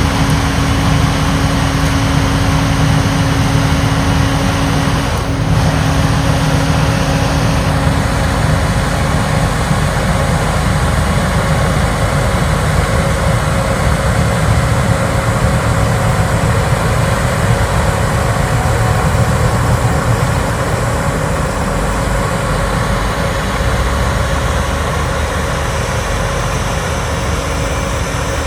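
Larue D60 snow blower and its heavy diesel power running steadily under load as it works through a snow windrow, a constant dense machine noise with a steady engine hum.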